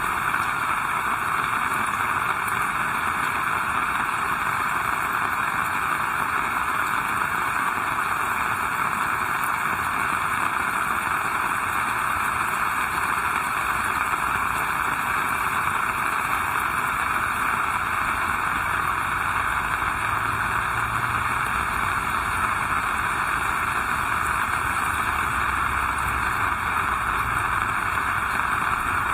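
Heavy rain falling steadily, an even hiss with no breaks. A faint low rumble joins in during the second half.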